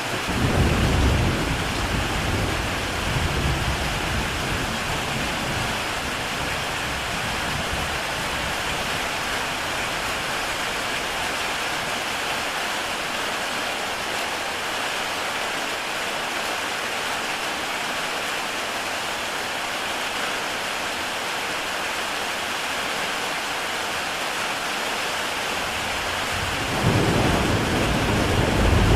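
Heavy rain on a tile roof: a steady, dense hiss of raindrops. A low rumble swells in the first few seconds and comes back louder near the end.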